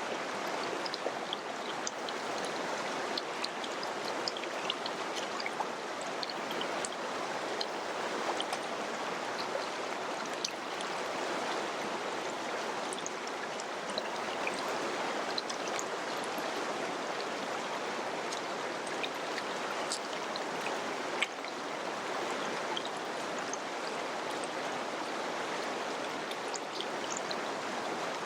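Mountain river flowing: a steady rush of water, dotted with small splashes and drips.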